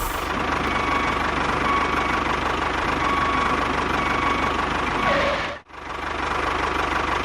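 Mini tractor's motor running steadily with a fast, even knocking rhythm. It cuts out abruptly a little past five seconds and then resumes.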